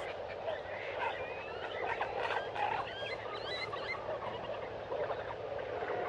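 Tropical forest wildlife chorus: frogs and birds calling together in many overlapping short chirps and whistles that rise and fall.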